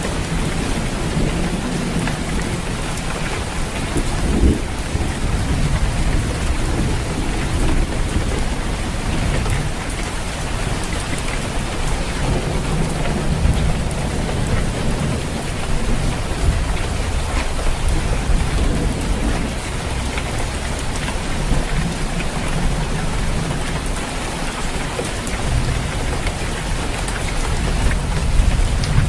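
Steady, dense rain falling on a roof, with low rumbles of thunder swelling and fading several times under it.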